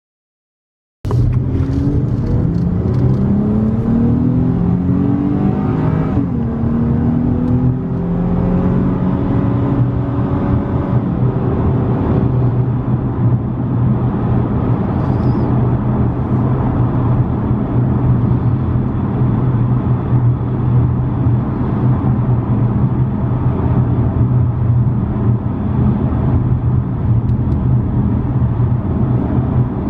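A Dodge Challenger's 3.6-litre Pentastar V6 exhaust heard from inside the cabin. It accelerates with a rising pitch that steps back down at each upshift several times, then settles into a steady low drone at cruise.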